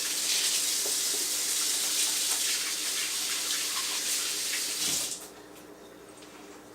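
Kitchen sink faucet running as hands are washed under the stream: a steady rush of water, shut off abruptly about five seconds in.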